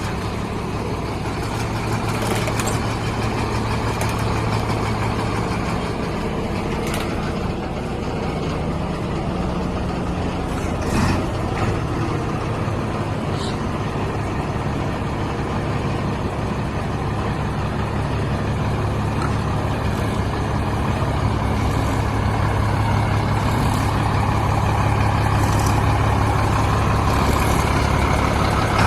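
Diesel engine of a Sinotruk Howo dump truck idling steadily, with a few brief clicks over it.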